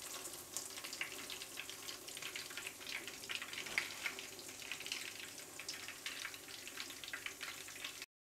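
Beef-mince chapli kababs shallow-frying in hot oil in a pan: a steady sizzle thick with small crackling pops. It cuts off suddenly just before the end.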